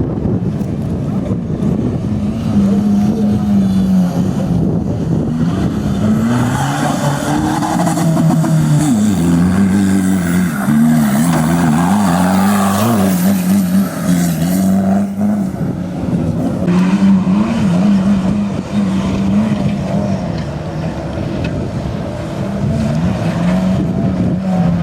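Off-road vehicle's 1.9 TDI four-cylinder turbodiesel engine revving and labouring, its pitch rising and falling over and over as the throttle is worked. The sound gets busier and noisier through the middle stretch.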